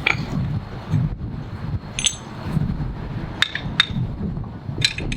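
Hammer tapping metal grinding tooling to knock it loose from a floor grinder's plate: about six sharp, irregular metallic clinks with a short ring, two of them close together near the end.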